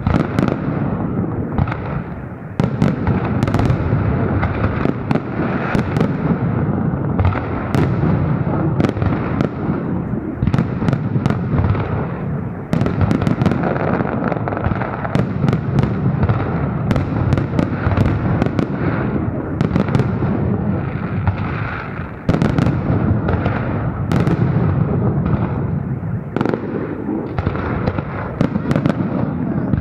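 Festive fireworks display: a continuous barrage of overlapping bangs and crackle, with many sharp reports coming in quick, irregular succession and only brief lulls.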